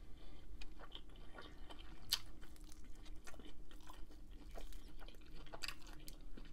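Close-up chewing of bacon-wrapped shrimp: faint wet mouth clicks and smacks, scattered irregularly, with a few sharper clicks about two seconds in and near the end.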